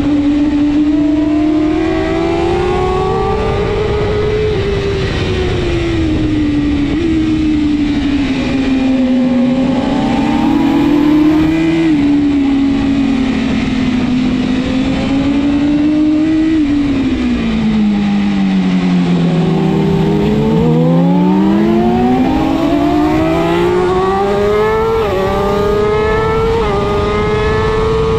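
BMW S1000RR inline-four superbike engine at race speed: the revs climb, drop sharply at each quick upshift and climb again. About two-thirds in, the revs fall away as the bike slows for a corner, then it accelerates hard through several quick upshifts, with steady wind rush throughout.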